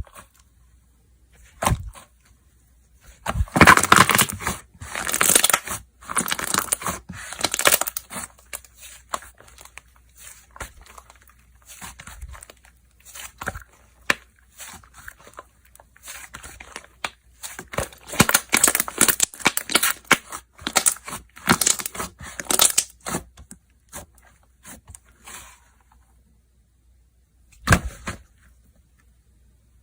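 Slime being played with by hand: clusters of crackling and popping as it is pressed, stretched and folded, in two long busy stretches and a short burst near the end.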